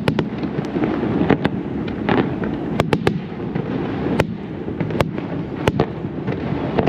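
Aerial fireworks display going off: a continuous rumble of shell bursts with about ten sharp cracks scattered through, several in quick succession around the middle.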